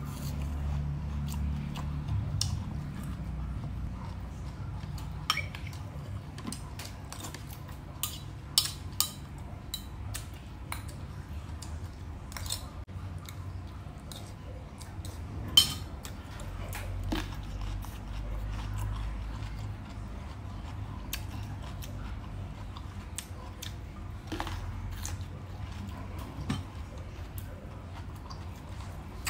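Close-up chewing and biting of crunchy raw water chive stalks, with many scattered sharp clicks and snaps; one click about halfway through is the loudest.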